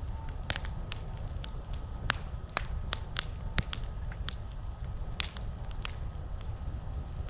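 Wood campfire crackling, with about a dozen sharp, irregular pops over a steady low rumble.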